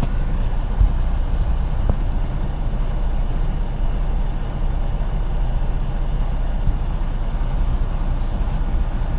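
Semi-truck's diesel engine idling while parked, a steady low rumble heard from inside the cab, with a couple of faint knocks about one and two seconds in.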